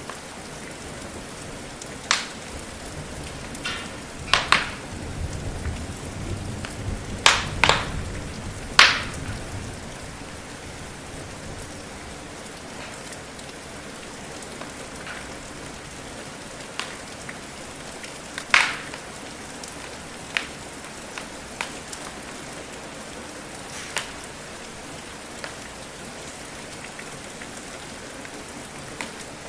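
Steady rain falling, with the sharp pops and crackles of a wood fire burning in a fireplace, several close together in the first third and a few spread out later. A low rumble sits under the cluster of pops.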